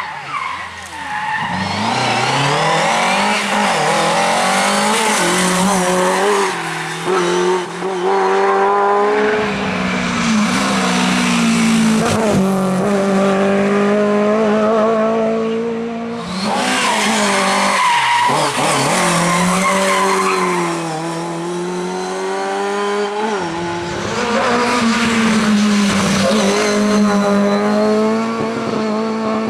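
Rally cars driven flat out on a stage, engines revving high and dropping again and again through gear changes and lifts, with tyre noise.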